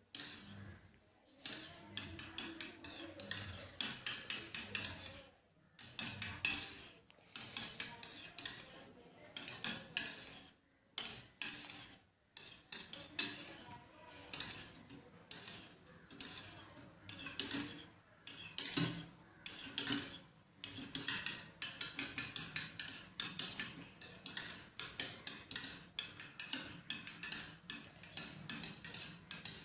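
A spoon stirring a thin, watery mix of Cerelac and warm water in a cup, clinking rapidly against its sides in bouts with brief pauses: hand-feeding formula for budgie chicks being mixed.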